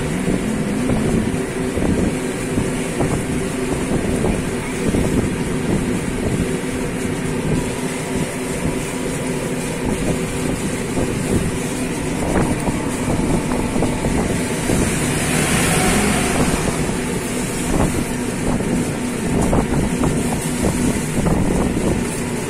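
Boat engine running steadily at a constant pitch, with wind noise on the microphone. A brief rushing hiss swells up about two-thirds of the way through.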